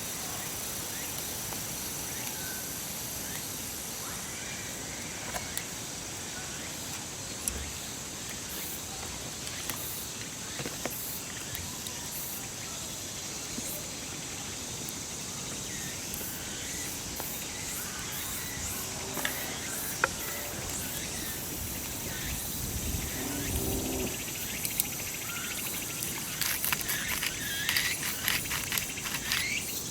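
Steady high-pitched insect chorus of crickets, with scattered light clicks and knocks over it.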